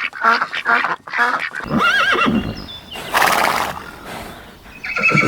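Ducks quacking in quick repeated calls, then about one and a half seconds in a horse whinnies, gives a short noisy blast of breath, and neighs again near the end.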